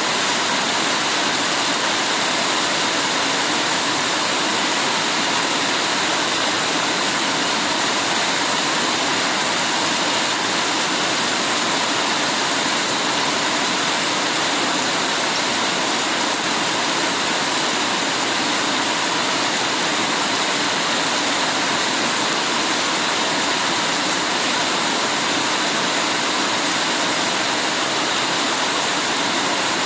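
Heavy rain falling steadily, a dense even hiss with no single drops or breaks standing out.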